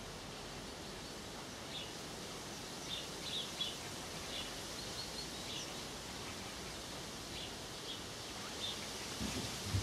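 Small birds chirping: short, high tweets scattered over a steady background hiss, with a brief low rumble near the end.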